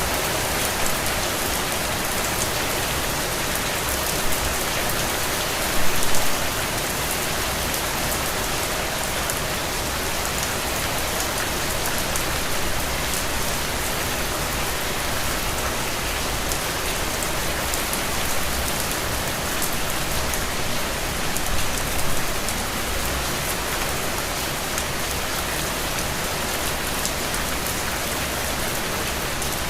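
Steady rain falling: a continuous dense hiss full of small individual drop ticks. It swells louder for a moment twice, about six seconds in and again a little past twenty seconds.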